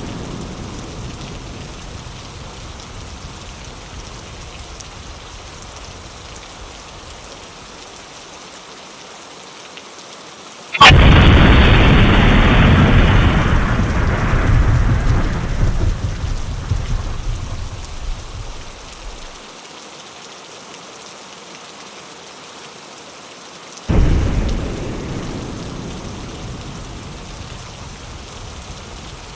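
Steady rain on a window with thunder: a sharp, loud thunderclap about 11 seconds in that rumbles away over several seconds, and a softer clap about 24 seconds in that fades more quickly.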